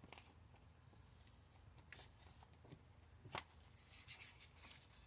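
Near silence with faint rustling and a few light taps and clicks from hands working a vinyl wrap onto a tumbler. The sharpest tap comes about three and a half seconds in.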